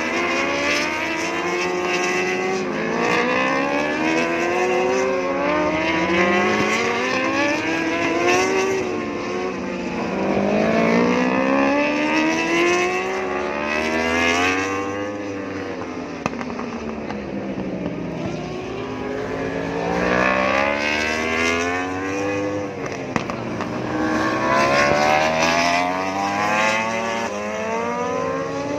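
Several racing superbikes passing one after another at high revs. Each engine's pitch climbs in repeated steps through the upshifts and then drops away, with two or more bikes often heard at once.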